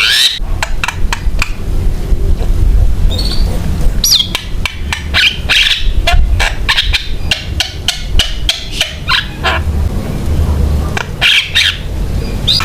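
Javan myna (jalak kebo) singing continuously, a fast varied run of harsh squawks, clicks and short whistled glides, over a steady low rumble.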